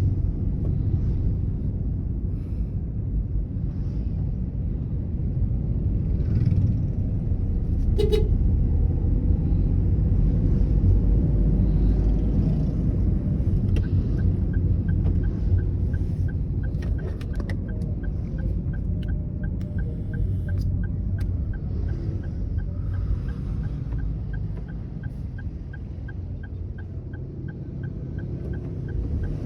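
Car driving, heard from inside the cabin: a steady low rumble of engine and road noise. A sharp click sounds about eight seconds in, and from about halfway through a light regular ticking comes in, about twice a second.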